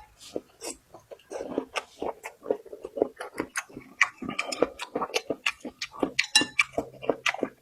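Close-up chewing and eating: rapid, irregular wet smacking and crunchy clicks, several a second.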